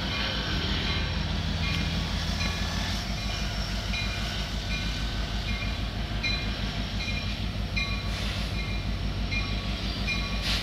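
Diesel locomotive of an approaching passenger train running with a steady low rumble. A short high beep repeats about once or twice a second throughout.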